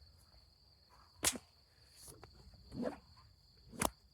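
Two sharp whip cracks, about a second and a half in and again near the end, with crickets chirring steadily throughout.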